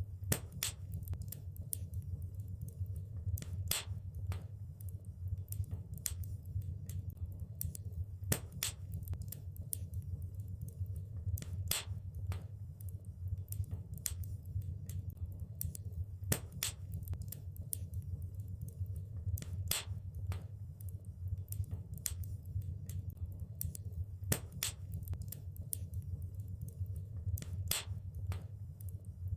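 Wood fire crackling in a fireplace: irregular sharp pops and snaps over a steady low rumble of the flames, with a louder pop standing out every few seconds.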